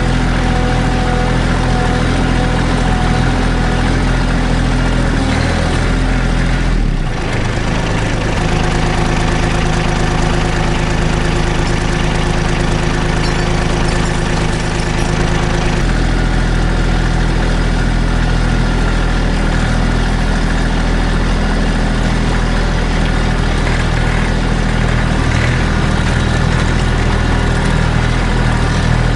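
Kubota B2650 compact tractor's diesel engine running steadily, its note changing about seven seconds in and again around sixteen seconds in.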